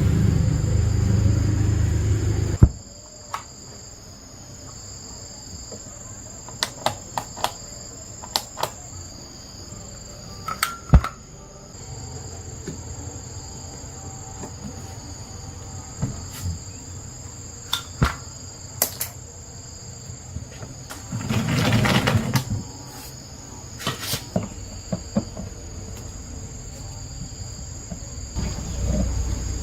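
Crickets chirring as a steady high drone, with scattered sharp clicks and knocks over it. A louder low rumbling noise at the start cuts off with a sharp knock after about three seconds, and a brief rushing noise comes about twenty-two seconds in.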